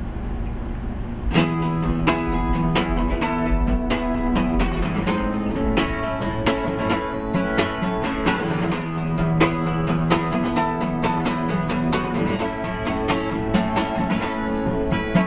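Acoustic guitar strummed in an instrumental passage between sung lines, the strumming coming in firmly about a second and a half in and keeping a steady rhythm.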